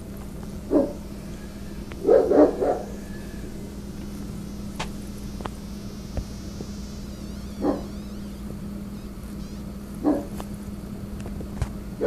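Rottweiler barking at strangers: a single deep bark, a quick run of three about two seconds in, then single barks at long gaps. A steady low hum runs underneath.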